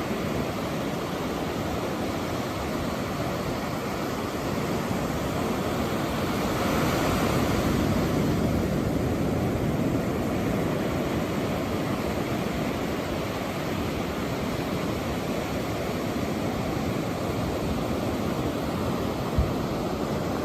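Surf washing onto a beach with wind, a steady rush that swells about seven seconds in and then settles. A single sharp pop sounds near the end.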